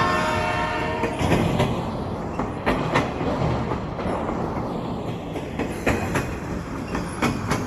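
Train running along the track, its wheels clacking over rail joints in pairs over a steady rumble. A horn note carries on from before and cuts off about a second in.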